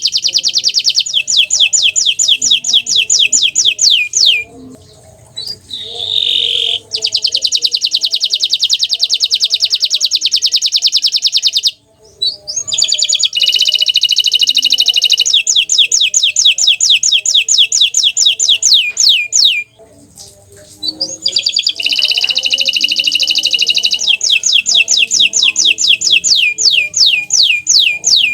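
Green domestic canary singing long song phrases of fast, rapidly repeated high trills. The song breaks off briefly three times and then resumes.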